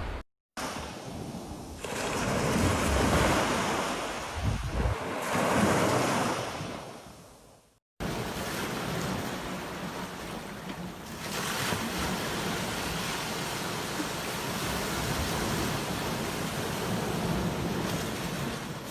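Sea waves breaking and washing up a beach: two swells of surf that fade away, then after a brief cut to silence a steadier rush of surf.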